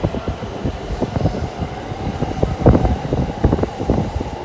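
Electric train running, heard from aboard: a steady low rumble with dense, irregular knocks and rattles from the wheels on the track.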